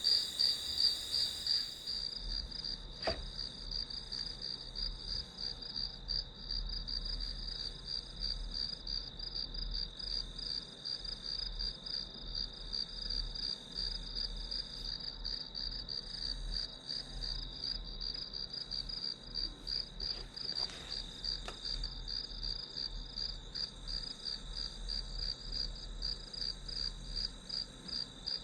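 Crickets chirping in an unbroken, high-pitched, evenly pulsing trill.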